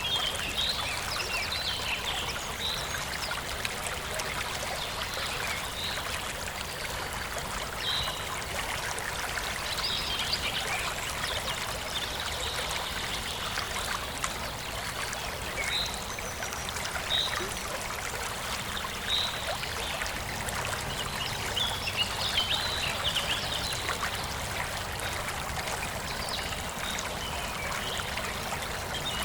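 A forest stream flowing and trickling steadily, with birds chirping now and then over it.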